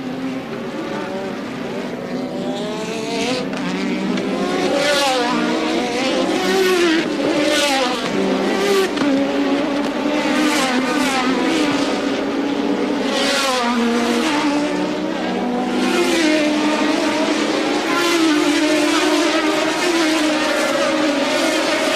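Several Formula One cars of the 1983 season running together, their engine notes overlapping and rising and falling in pitch, with a swell of noise as each one goes by.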